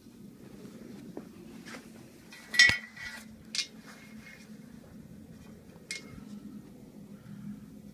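Sharp metallic clanks with a brief ring, three of them, the loudest about two and a half seconds in, over a steady low hum.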